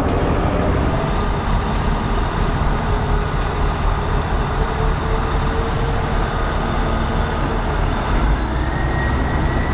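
Heavy road vehicle engine running steadily under load with road noise. A high, steady whine joins in near the end.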